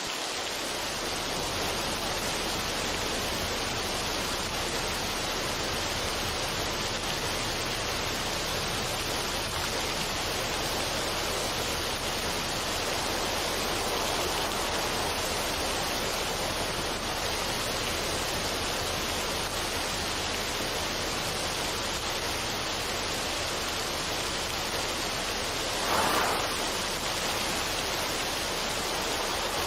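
Steady rushing water, an even hiss-like roar with no music over it, with one brief louder swell near the end.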